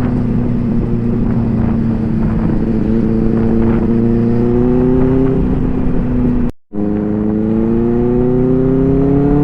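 Motorcycle engine heard while riding, running steadily with its pitch easing slowly down for about six seconds. The sound drops out completely for a split second, then the engine pitch climbs steadily as the bike accelerates.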